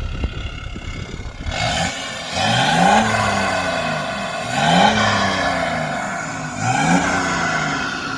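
BMW 530d's three-litre straight-six diesel with its DPF deleted, idling and then revved three times. Each rev climbs quickly and falls back more slowly.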